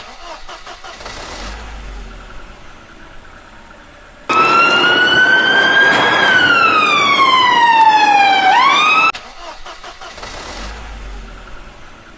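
A loud whistle-like tone that starts suddenly about four seconds in, rises slightly, glides steadily downward for about two seconds, swoops back up briefly and cuts off abruptly, with only faint noise before and after.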